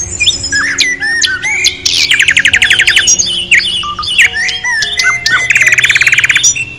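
Birds chirping and calling with quick whistles, and two fast trills, one about two seconds in and one about five and a half seconds in. Soft background music runs underneath.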